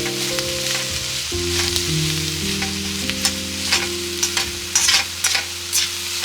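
Food sizzling as it fries in a pan, with repeated short clicks and scrapes from a cooking utensil. Soft background music of held chords plays underneath.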